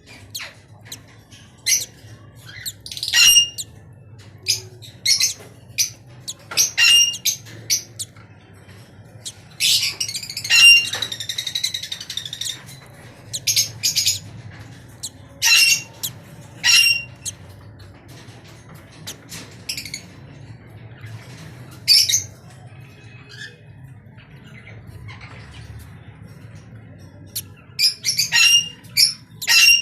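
Pet birds giving loud, short squawks again and again, with a longer run of rapid calls about ten seconds in. A faint low hum sits underneath.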